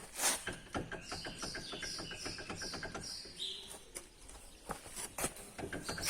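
A bird sings a quick run of about six short, high whistled notes, over a series of light clicks and a few louder knocks.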